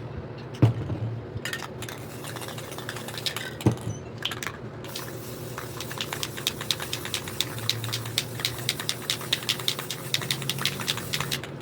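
Spray paint can being shaken, its mixing ball rattling in quick, even clicks, after a few separate knocks, over a steady low hum.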